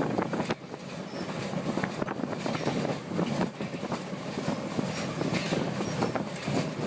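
A 1927 vintage steam train running on its line, with irregular knocks and clatter from the train and its wheels on the rails.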